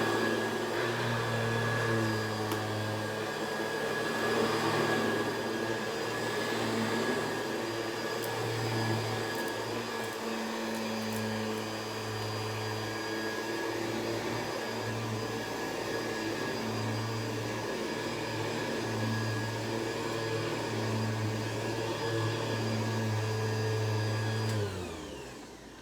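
Hoover Convertible upright vacuum cleaner running on carpet, a steady motor hum with a thin whine on top. It is switched off about a second before the end, the motor winding down in falling pitch.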